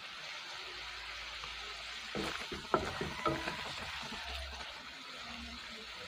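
Pork simmering in coconut milk in a metal wok, a steady bubbling sizzle. Between about two and three and a half seconds in, a wooden spatula stirs the pork, with several sharp knocks and scrapes against the pan.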